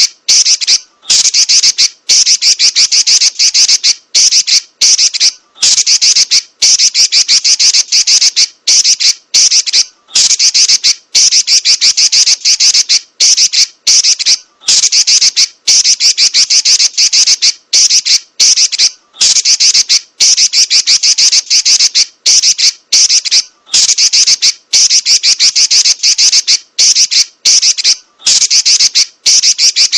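Female Pekin robin (red-billed leiothrix) chattering in long, rapid, high-pitched rolling runs, broken by brief pauses every second or two.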